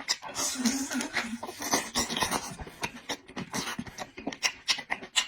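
Close-miked eating sounds: a person chewing food with rapid, irregular wet lip smacks and mouth clicks.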